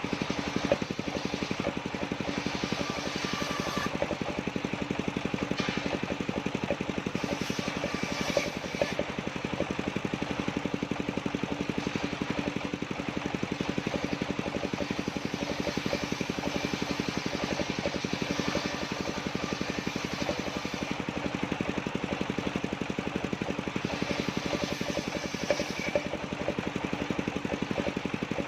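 Engine driving a circular-saw sawmill, running steadily at a constant speed with a fast, even beat. A few short knocks stand out, near the start, about 8 seconds in and near the end.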